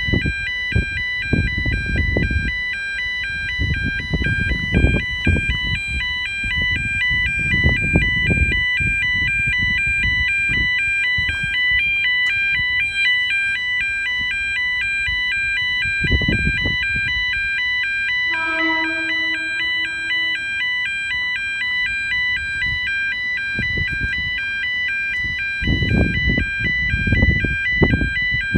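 Electronic level-crossing alarm sounding continuously, a rapid two-tone warble over a steady high tone, signalling that the pedestrian gate is unlocked and it is safe to cross. Low rumbling buffets come and go beneath it, and a brief low hoot sounds about two-thirds through.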